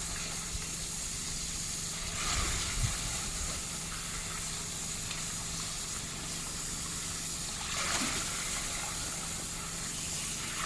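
Water hissing steadily out of a leaking underground water pipe, with a faint steady hum beneath it.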